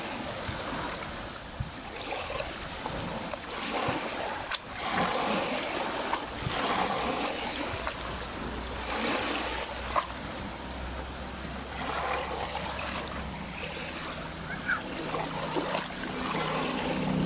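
Small lake waves lapping at the shore, the water noise swelling every two to three seconds. Near the end a motorboat's engine hum starts to come in.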